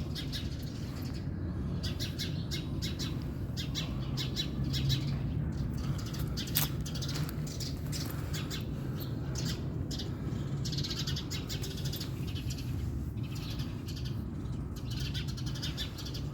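Small birds chirping rapidly and over and over in protest, alarm calls aimed at a cat, over a steady low rumble. A single sharp click about six and a half seconds in.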